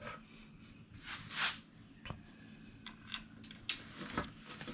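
Faint scattered clicks and a brief scrape from screws and a hand tool being handled as an ignition coil is fastened down on a mower engine.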